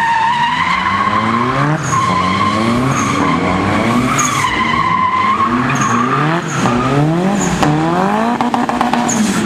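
Car doing a burnout: the engine revs up again and again in quick sweeps while the tyres squeal steadily. Onlookers take the revving for a slipping clutch and a transmission about to fail.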